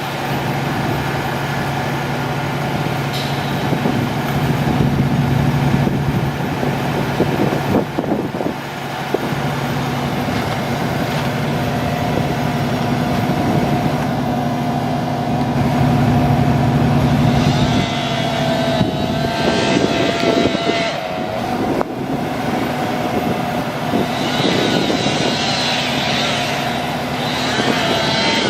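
Mack AMI-300 diesel engine of a 2003 Mack DM690S rolloff truck running steadily. A higher whine joins in the last third and holds.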